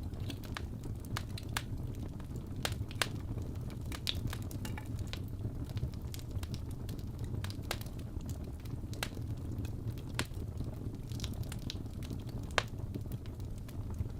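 Wood fire crackling in a fireplace: a steady low roar of the flames with irregular sharp pops and snaps, one louder pop near the end.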